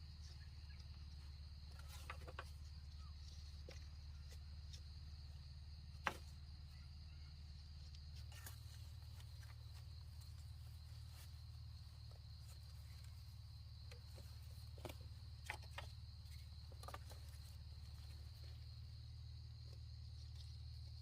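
Insects in the surrounding jungle, buzzing in a steady, high-pitched chorus. Scattered faint clicks and taps are heard, the sharpest about six seconds in.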